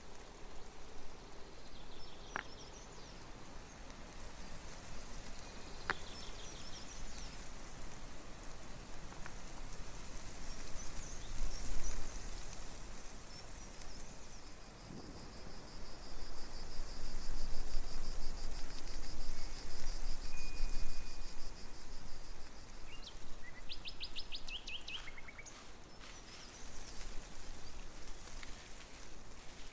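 Birds calling with short chirps and trills over a steady outdoor hiss; one bird holds a long fast trill through the middle, and a quick run of notes follows.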